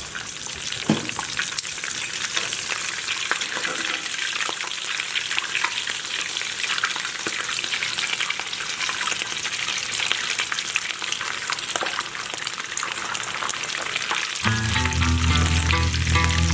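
Rolled corn tortilla tacos deep-frying in hot vegetable oil: a steady sizzle full of rapid crackling pops. About fourteen seconds in, music with a bass line comes in over it.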